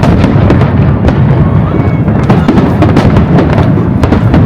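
Fireworks bursting in quick succession: a dense run of sharp bangs and crackles over a continuous low rumble.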